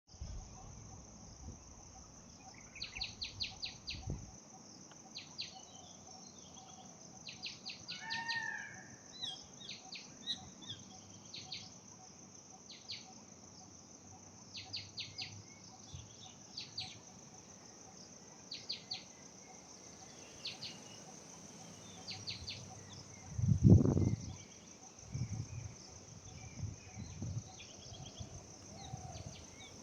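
Birds calling in short clusters of quick high chips, with one lower call about a quarter of the way in, over a steady high insect drone. A loud low thump comes about four-fifths of the way in.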